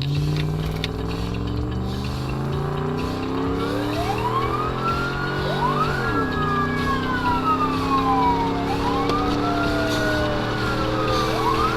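Emergency vehicle under way with its siren on: the engine pulls up in pitch while accelerating and drops about six seconds in as it shifts gear. The siren wail starts about four seconds in, rising, holding and sliding slowly back down in repeated cycles.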